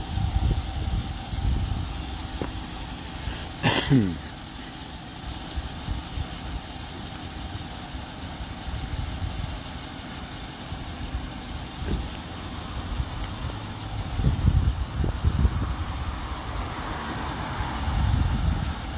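Low, steady rumble of a motor vehicle's engine running, swelling and easing unevenly. About four seconds in comes one short, loud sound that falls in pitch.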